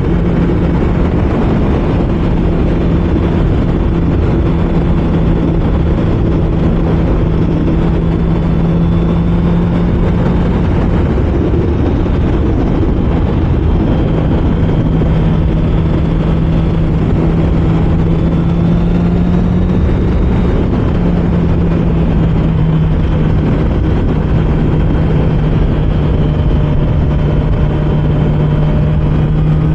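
Honda CBR650R's inline-four engine running at steady, moderate cruising speed; its pitch holds level and eases slightly about two-thirds of the way through. Wind and road noise rush over the helmet microphone, and the engine is in its break-in period, ridden without hard revving.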